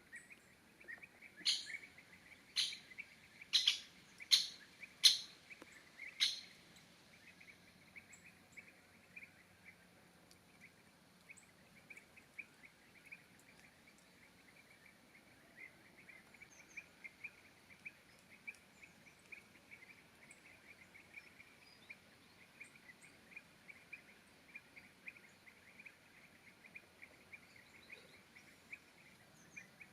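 A wild bird gives six loud, sharp calls about a second apart in the first few seconds. Under them and afterwards there is a faint, continuous rapid chirping.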